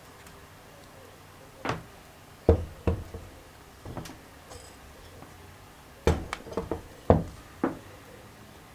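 A series of irregular sharp knocks and clacks from parts and tools being handled and set down during engine assembly, with several coming close together about six seconds in.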